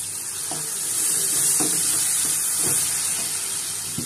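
Chopped tomatoes sizzling in hot oil with fried onions in a frying pan, stirred with a wooden spatula. A steady sizzle runs throughout, with a scrape of the spatula about once a second.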